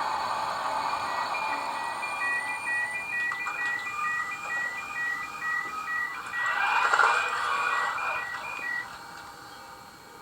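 Electronic warning beeps in quick, even succession, alternating between two high tones, for about eight seconds, with a short burst of noise near the middle.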